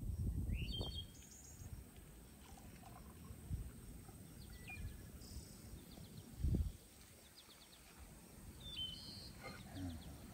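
Small birds chirping and trilling in short, scattered phrases over a low rumble, with one dull thump about two-thirds of the way through.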